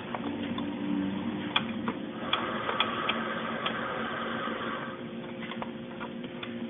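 Scattered light clicks and taps, several seconds apart, of hands working on computer hardware while a processor is being installed, over a steady low background hum.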